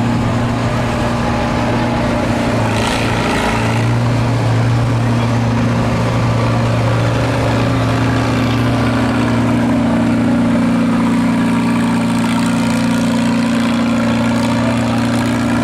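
Stock farm tractor's engine running loud and steady at a constant pitch. There is a brief rush of noise about three seconds in.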